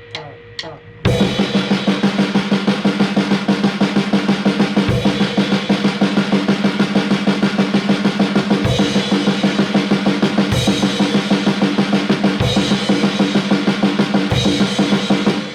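A few light clicks, then about a second in a drum kit starts playing a fast, steady beat, with a sharper crash-and-kick accent roughly every two seconds. The playing stops abruptly near the end.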